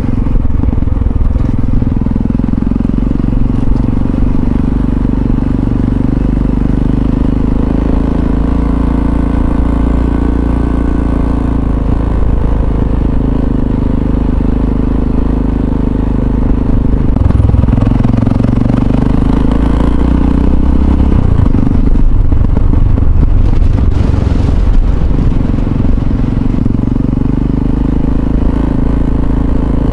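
Yamaha XT660Z Ténéré's single-cylinder four-stroke engine running under way, its note steady for long stretches and shifting in pitch several times as the throttle and gears change.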